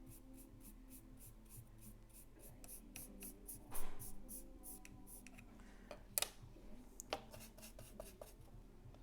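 Paintbrush scrubbing grey paint onto small craft pieces in quick, even strokes, about five a second, with a louder rub about four seconds in and a sharp click a little after six seconds.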